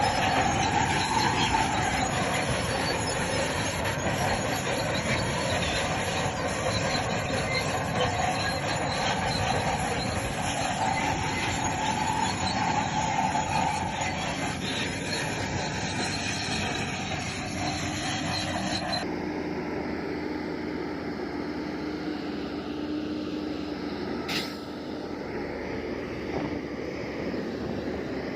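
Bulldozer working, its steel crawler tracks squealing over the running diesel engine. About two-thirds of the way through the squeal stops and a quieter, steadier engine hum is left.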